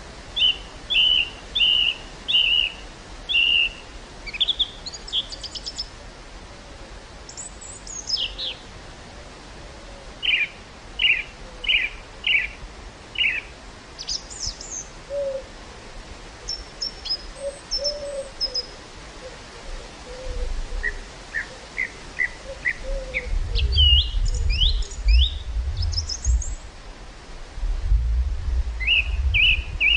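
Songbirds calling in series of short repeated chirps, with wind gusting against the microphone as a low rumble in the second half.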